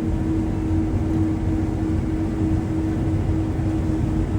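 Harvest machinery engine running steadily: a low rumble with a constant hum.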